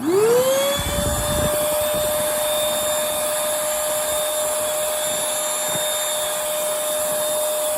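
Bissell Featherweight stick vacuum's 2-amp motor, used as a handheld vacuum, switching on: a quickly rising whine that settles into a steady high-pitched run. A brief low rumble comes about a second in.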